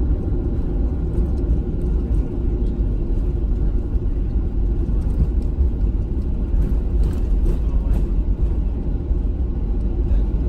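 Boeing 737-800 airliner's steady low rumble at an even level, with no sudden changes.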